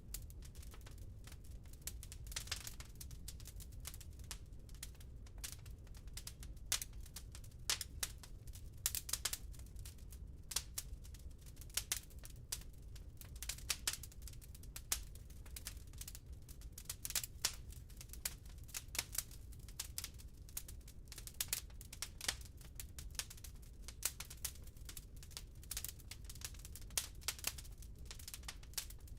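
Wood fire crackling in a fireplace: a constant patter of small pops and snaps with sharper louder cracks every few seconds, over a low steady rumble.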